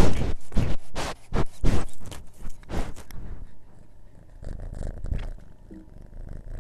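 Scratching: a quick run of short rasping strokes, about three a second, that thins out about halfway through into a few faint scrapes.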